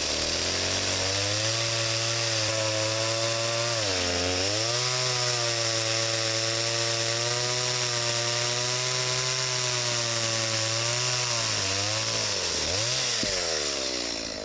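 Two-stroke chainsaw running at high revs, its pitch dipping and recovering about four seconds in, wavering again near the end, then dropping away.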